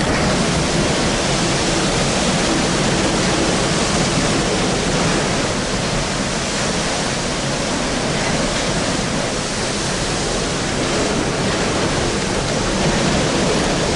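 Steady, loud rushing noise of storm wind and sea at a ship's open door.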